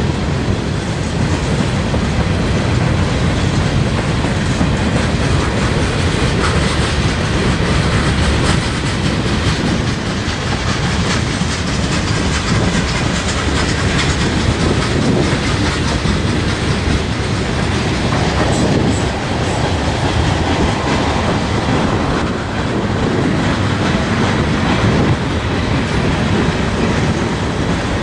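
A mixed freight train's cars (boxcars, covered hoppers and tank cars) rolling steadily past on the rails, with continuous wheel-on-rail clatter.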